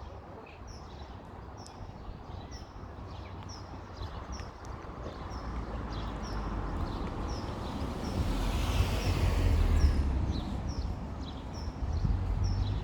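A small bird calling over and over with short, high, falling chirps, about two a second. Underneath, a low outdoor rumble grows, loudest about eight to ten seconds in.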